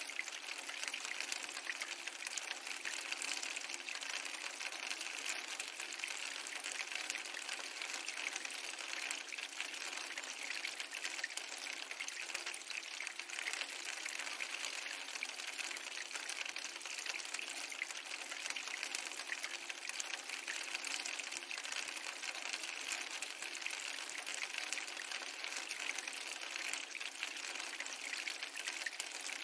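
Steady rain-like hiss with fine crackling throughout, from an ambience mix of rain and a fireplace; no swell of waves stands out.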